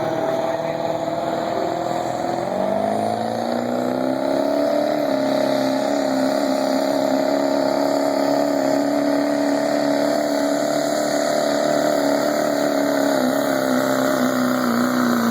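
Truck engine revving up over a couple of seconds, then held at steady high revs for the rest of the time, as in a truck pull run.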